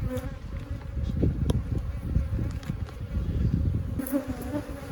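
Honey bees buzzing in numbers around an open hive: a steady, droning hum with uneven low rumbling under it and a few sharp clicks.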